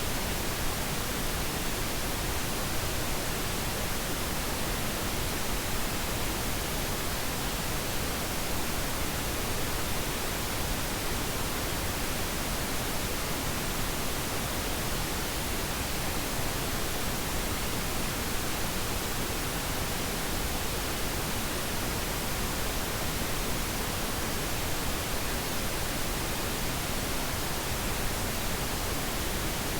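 Steady synthetic pink noise: an even, unbroken hiss spread across all pitches, unchanging throughout.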